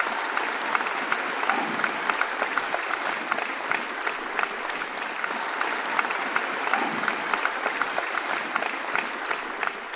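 Audience applauding at the end of a talk: steady clapping from many people that begins to fade near the end.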